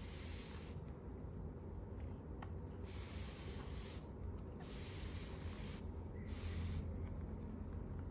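Hair dryer blowing: a steady low hum under a hiss that comes and goes in four bursts of about a second each.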